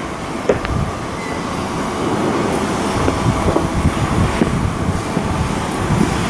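Shipbuilding work noise: a steady machinery rumble with frequent irregular knocks and clanks.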